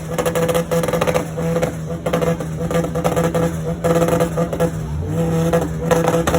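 Car engines running loudly, with a rise in revs about five seconds in.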